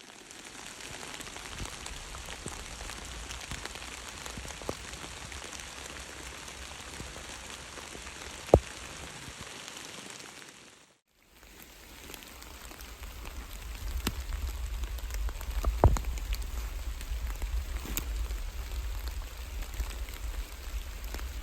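Steady rain falling in the woods, an even hiss with a couple of sharp single taps, one about eight and a half seconds in and another near sixteen seconds. The sound breaks off briefly near the middle, and after it a low rumble runs under the rain.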